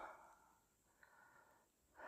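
A person breathing heavily and faintly, out of breath: one breath fades at the start and a weaker one comes about a second in.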